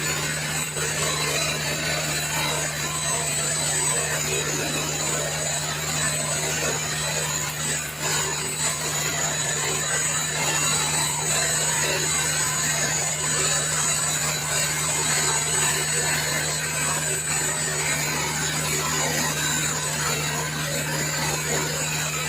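Stick (SMAW) welding arc crackling steadily and without a break while a horizontal root pass is run, with a constant low hum underneath.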